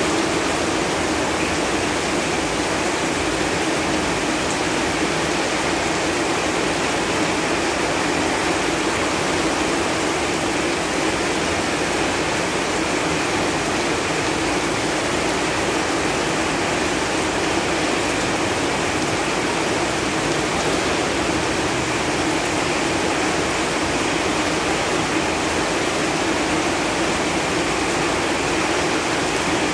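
Steady rain falling on leaves: a dense, even hiss with no single drops standing out.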